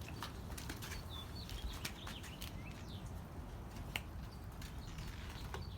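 Faint bird chirps, a few short rising and falling calls, with scattered light clicks and taps.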